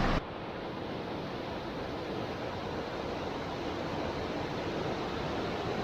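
Steady rushing noise of water, an even hiss with no distinct splashes or drops.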